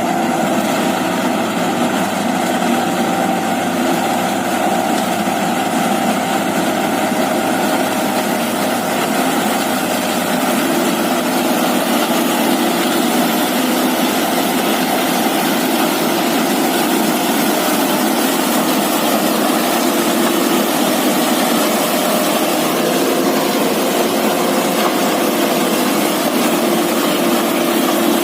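Diesel engine of heavy farm machinery running steadily at an unchanging speed, a constant loud hum.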